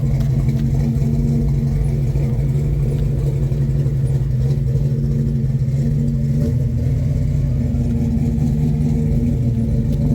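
Car engine idling steadily, with a low, even hum that does not rise or fall.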